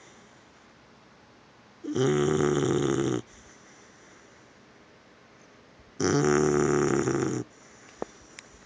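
Pitbull puppy snoring in its sleep: two loud, rough snores about four seconds apart, each lasting over a second, with quiet between.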